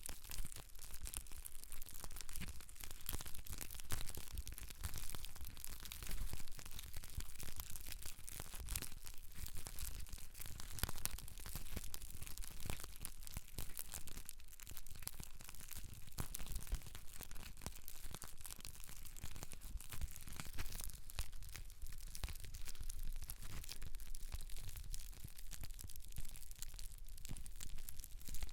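Close-miked scratching and rubbing over hair and scalp during slow scalp care: a dense, unbroken run of small crackles.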